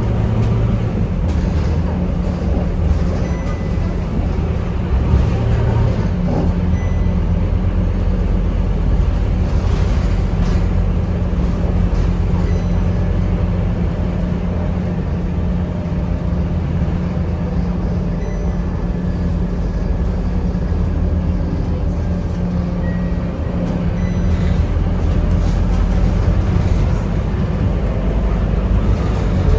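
Scania K230UB city bus's diesel engine running while under way, heard from inside the cabin as a steady low drone. A whine rises near the end as the bus picks up speed.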